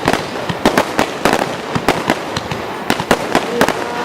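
Aerial fireworks going off in quick, irregular succession: many sharp bangs and crackles, several a second.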